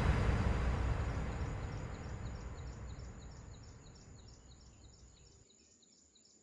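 Steady rushing of a waterfall, fading out over about five seconds. A faint, rapid, evenly repeated high chirping remains.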